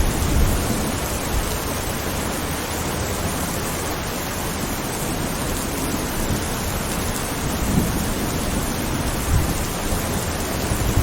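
Steady rain falling, with low rolls of thunder: one dying away at the start, another about two-thirds through, and a third building at the very end.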